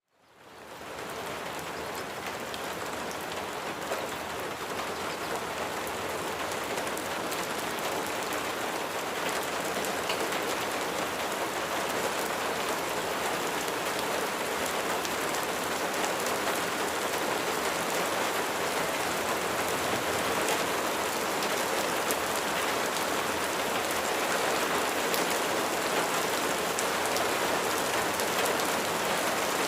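Steady rain falling, a dense, even hiss of drops. It fades in from near silence in the first second, then grows slowly louder.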